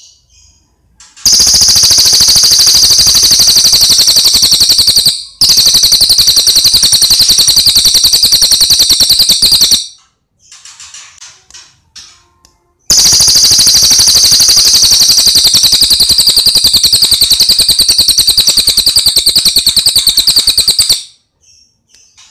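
Cililin bird singing: two long, very loud, rapid high trills of fast repeated notes, each lasting about eight seconds, with softer short chirping phrases before, between and after them.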